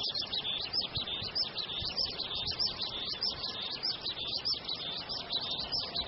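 Birds chirping continuously in a steady, high-pitched chorus, the short chirps repeating several times a second.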